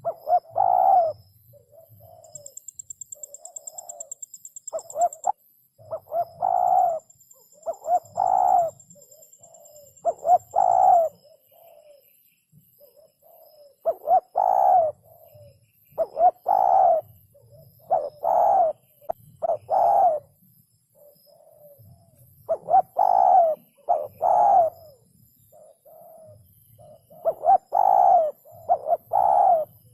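Spotted dove cooing: repeated phrases of a few low coo notes, one phrase every two seconds or so.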